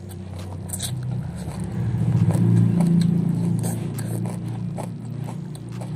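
Eating sounds of a person chewing a mouthful of rice and water spinach eaten by hand, with scattered short wet mouth clicks. Under them runs a low motor hum that swells to its loudest about halfway through and then fades.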